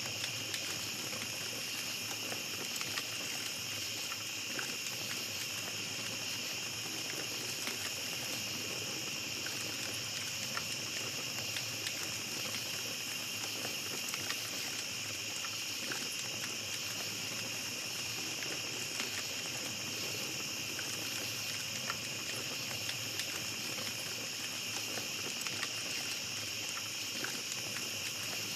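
Small campfire crackling with scattered pops, over a steady high chorus of night insects such as crickets.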